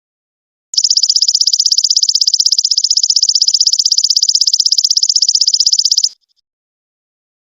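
A belalang emas ('golden locust') insect's song: a loud, high-pitched, rapidly pulsed trill. It starts about a second in and cuts off abruptly about six seconds in.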